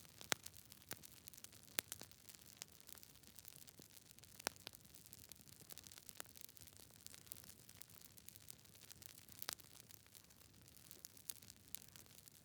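Campfire wood crackling: irregular sharp pops and snaps, a few louder than the rest, over a faint soft hiss.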